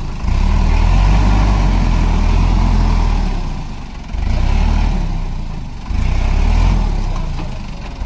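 Heavy diesel engine running with a steady low drone, its sound jumping abruptly about a quarter second in, about four seconds in and about six seconds in.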